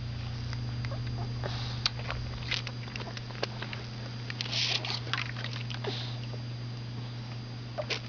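Toddler sucking water from a ball-valve drinking bottle with a marble in the spout: scattered small clicks and short slurping hisses over a steady low hum.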